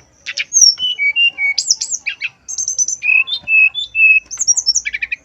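Male brown-chested jungle flycatcher singing: a loud, varied phrase of clear whistled notes stepping between pitches, mixed with quick high trills and rapid slurred notes.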